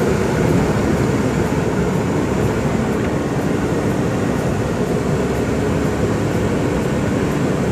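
Steady low rumble of road traffic, many vehicle engines running together on a jammed street.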